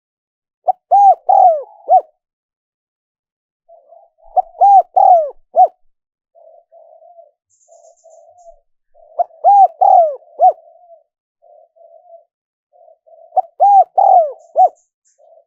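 Spotted dove cooing: four phrases of several short, arched coos each, about four seconds apart, with softer, lower cooing in the gaps between phrases.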